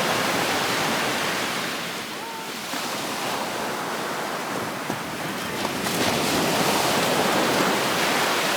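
Surf breaking on a Gulf of Mexico beach. There is a steady rush of waves that eases a couple of seconds in and swells again about six seconds in.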